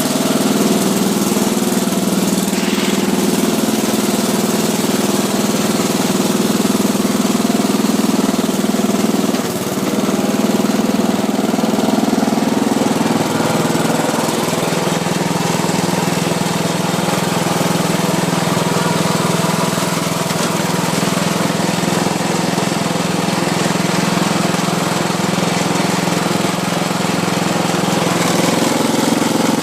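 Ariens RM1032E riding mower engine running steadily just after a cold start, throttle set to run and blade disengaged. Its speed drops slightly about halfway through and picks back up near the end.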